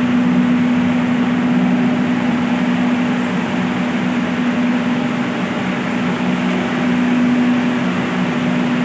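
Electric water pumps running steadily: a constant hum over an even rushing noise.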